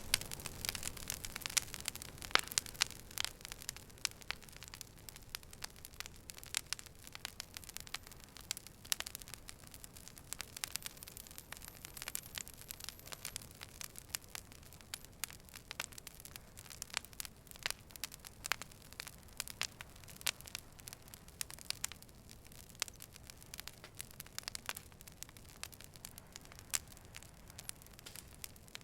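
Wood fire burning, crackling and popping in many sharp, irregular snaps over a low, steady hiss, busiest in the first few seconds.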